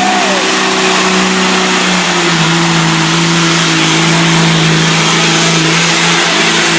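Diesel engine of a gross stock semi truck running at high revs under full load as it pulls the weight sled. The note holds steady, dips slightly about two seconds in, then holds again.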